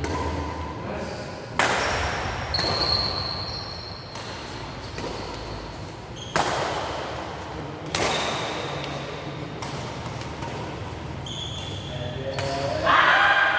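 Badminton racket hits on a shuttlecock, four sharp echoing cracks a few seconds apart, with thin squeaks between them. A loud voice rises near the end.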